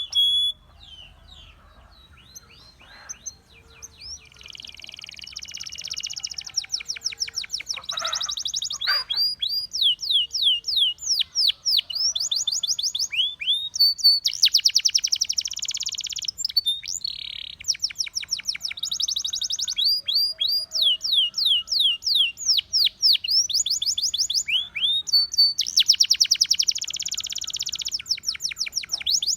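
Russian singing canary in full song: long runs of fast, repeated, downward-sliding whistled notes alternating with dense buzzy trills, faint at first and building up after about four seconds.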